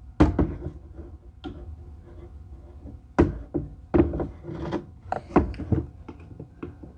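Irregular knocks and clunks with some rubbing as tractor control parts are handled and worked on, the loudest knocks just after the start and around three, four and five and a half seconds in.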